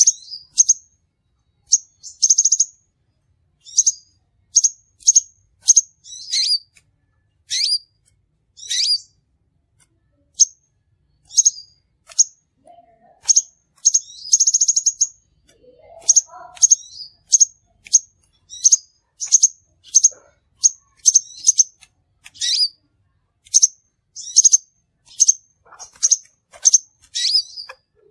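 Crimson sunbird calls: short, high, sharp chirps repeated irregularly, one or two every second, with a couple of brief buzzy trills among them. It is a lure recording of the species' call.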